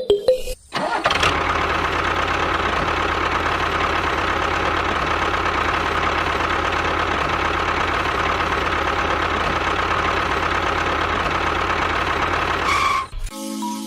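Small engine running steadily at an even, fast beat. It starts about a second in and cuts off suddenly near the end.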